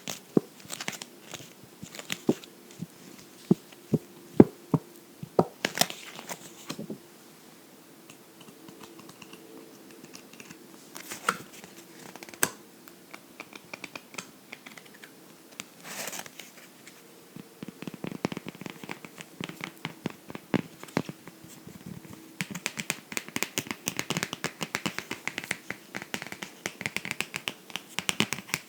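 Close-up tapping and scratching on a book: irregular sharp taps through the first seven seconds and a few more in the middle. A fast, dense run of scratching begins about 22 seconds in.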